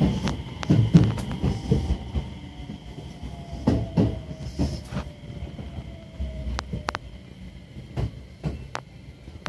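A JR West local electric train heard from inside the carriage, its wheels clicking over rail joints with the clicks spacing out and the running noise fading as it slows into a station. A faint whine falls in pitch partway through.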